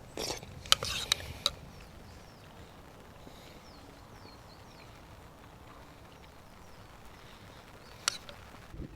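A few sharp clicks and knocks in the first second and a half and one more near the end, with faint high chirps in between over a low steady background.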